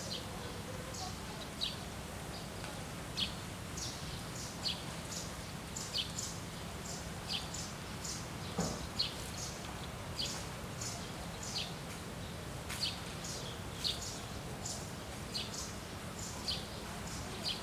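Birds calling over and over, short high chirps that slide down in pitch, one or two a second, over a steady low background hum.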